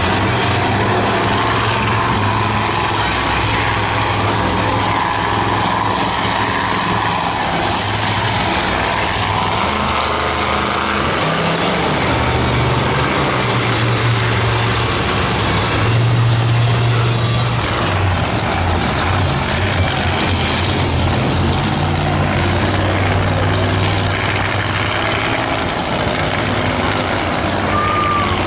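Monster truck engines running loudly, with the engine note rising and falling several times partway through.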